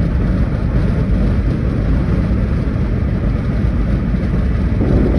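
Kei van driving: steady road and engine rumble, with some wind noise.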